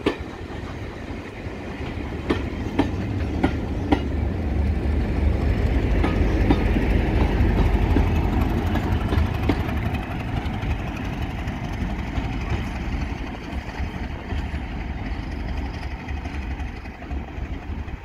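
Passing train of coaches, the wheels clicking a few times over rail joints, followed by a diesel locomotive at the rear whose heavy engine rumble builds to a peak and then slowly fades as it draws away.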